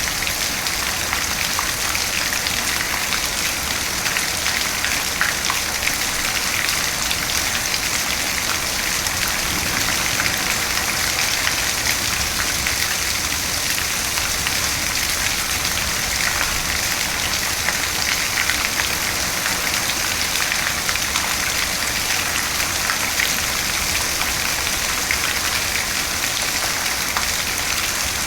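Steady rain falling, an even hiss with many small distinct drop hits scattered through it.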